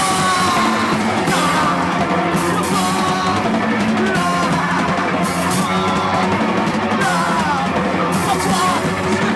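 Live rock band playing loud, with the drum kit's cymbals crashing about every second and a half over a dense, steady wall of sound.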